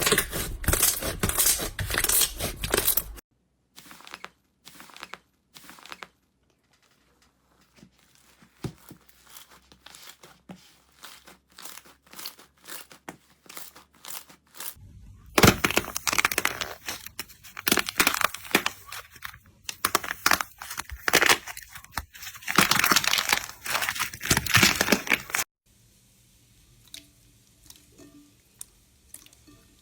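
Slime being squeezed and pressed by hand, giving dense crackling and crunching in two long stretches. Between and after them come quieter passages of sparse sticky pops and clicks, with abrupt cuts between the sections.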